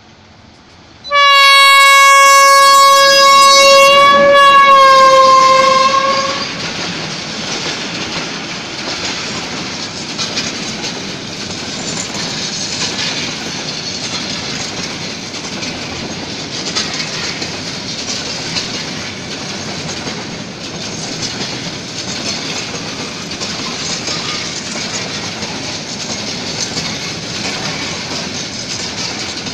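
Diesel locomotive horn sounding one long blast of about five seconds, dipping slightly in pitch at the end. Then a long freight train of open-top bogie wagons rolls past steadily, wheels clacking over the rail joints.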